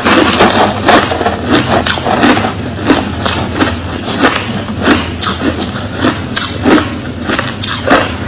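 A person chewing crushed ice close to the microphone: a fast run of crunches, about three a second, over a steady low hum.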